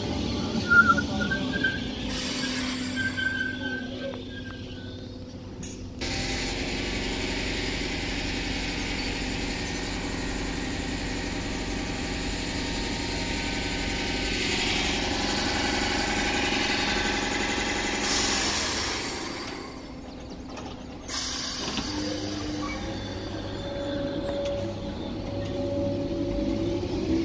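Electric multiple-unit passenger train moving slowly along the platform: a steady running hum from its wheels and motors, with thin squealing tones.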